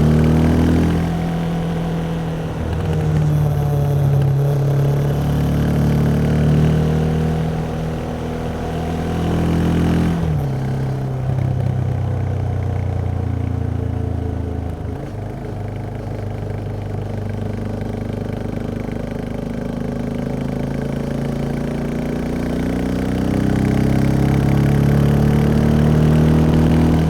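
Yamaha XT 660X's single-cylinder four-stroke engine running under way on its stock exhaust. The engine note dips about a second in, drops sharply about ten seconds in, holds at a lower pitch, then rises steadily toward the end as the revs build.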